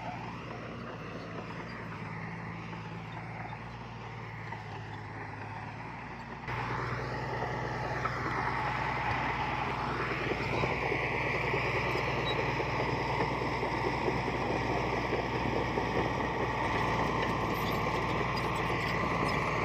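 Heavy diesel engine of earthmoving machinery running steadily. About six seconds in it suddenly gets louder, and over the next few seconds its pitch dips and rises as it works, then holds steady.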